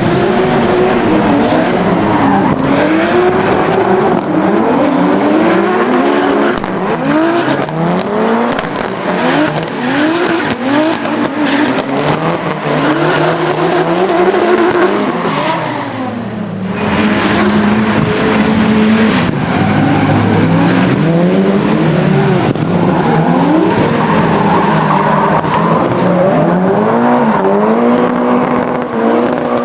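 Modified Nissan Silvia drift car's engine revving up and down over and over as it drifts, with tyres squealing and skidding under it. The engine note dips briefly a little past the middle, then climbs and falls again.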